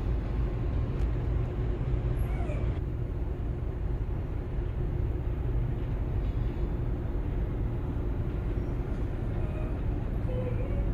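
Steady low rumble and hum of a ferry's engines, with a few faint short chirps over it.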